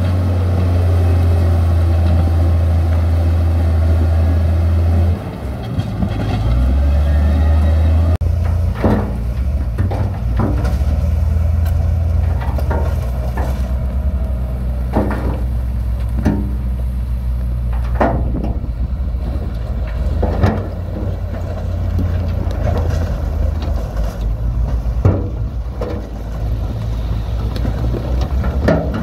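Heavy diesel construction machinery running with a loud, steady low rumble that shifts in pitch a few seconds in. From about nine seconds in, sharp knocks and clanks come every second or two.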